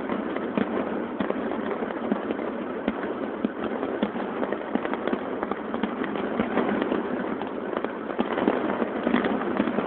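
Fireworks display: aerial shells bursting in a rapid, continuous string of bangs and crackles.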